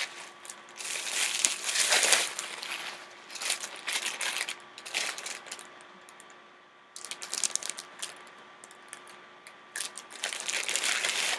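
Plastic packaging crinkling in irregular handfuls as it is pulled away from a new camera body, with a short lull a little past the middle.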